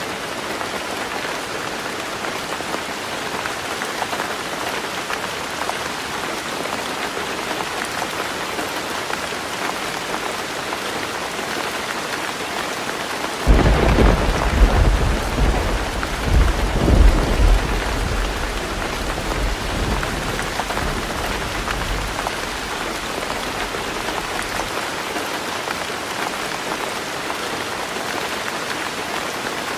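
Heavy rain falling steadily on a roof. About halfway through, a sudden clap of thunder breaks in and rumbles in several swells for about eight seconds before fading back under the rain.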